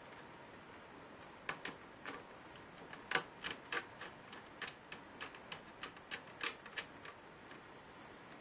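An irregular run of about twenty small, sharp clicks and taps over some six seconds, the loudest about three seconds in, from hard plastic and metal laptop parts being handled.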